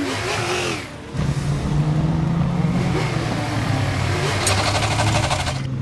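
Cartoon vehicle engine sound effects: falling whistle-like glides in the first second, then a steady engine drone. A fast rattling clatter joins about four and a half seconds in and cuts off just before the end.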